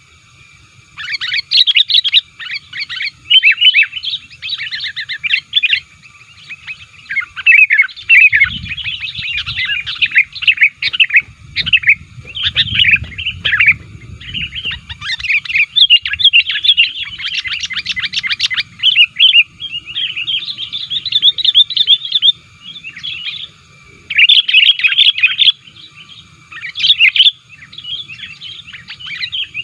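Sooty-headed bulbul (kutilang) singing loudly and without let-up: quick runs of varied chirping and whistled notes in bursts with short breaks. It is an excited, combative song of the kind played as a lure call to draw in rival bulbuls.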